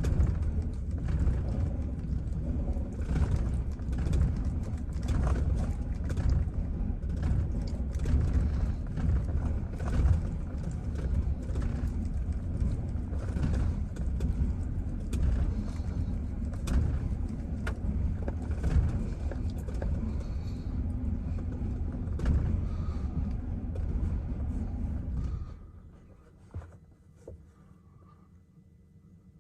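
Chevrolet Silverado pickup engine idling roughly, its rumble uneven and lurching, then shut off suddenly near the end; a couple of faint knocks follow.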